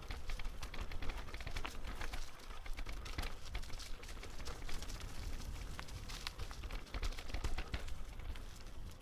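Footsteps crunching irregularly on a dry forest path, over a steady low rumble on the microphone.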